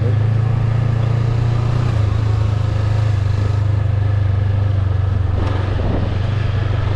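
Motorbike engine running steadily under way, a constant low drone with road and wind noise over it.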